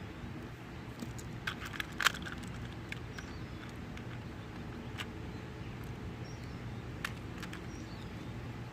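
Steady low hum of a construction machine's engine running in the background, with a few sharp clicks scattered through it, the loudest about two seconds in.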